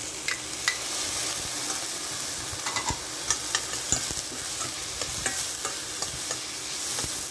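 Tomatoes, onions and garlic sizzling in a little oil in a stainless steel pot, with a metal spoon scraping and clicking against the pot as the mixture is stirred.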